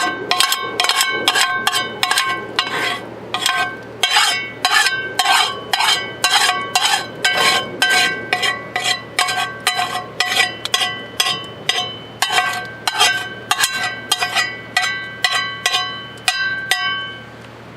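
A metal tent stake being hammered into the ground: a run of sharp hammer blows, about two to three a second, each with a ringing metallic tone, with a few short pauses, stopping shortly before the end.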